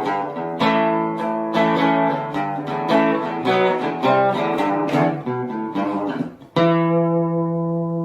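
Jingle music on acoustic guitar: a run of plucked and strummed notes, then one held final chord starting about six and a half seconds in.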